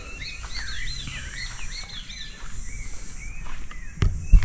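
Birds chirping, a quick run of short notes that rise and fall, fading out about halfway through. Near the end come a few loud low thumps.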